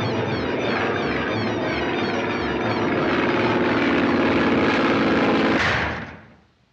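Propeller-plane engine sound effect droning steadily and getting louder, then dying away quickly about six seconds in.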